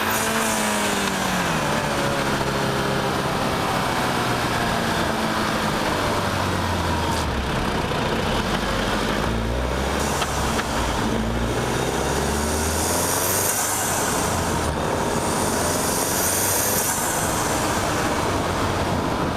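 Golf R's turbocharged 2.0-litre four-cylinder engine, heard from a bonnet-mounted mic, accelerating hard through the gears of its manual gearbox. Its pitch climbs and drops at each gear change, and there are two bursts of high turbo hiss about two-thirds of the way through.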